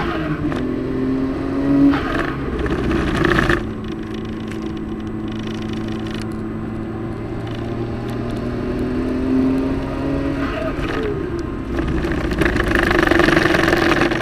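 Car engine heard from inside the car on track, pulling with rising pitch and dropping at a gear change right at the start and again about two seconds in. It then holds a steadier, lower pitch before getting louder again near the end.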